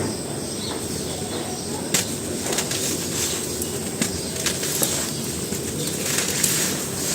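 Dry cement pieces crumbling and crunching, a scatter of crisp crackles, the sharpest about two seconds in and a cluster near the end, over a steady background hiss.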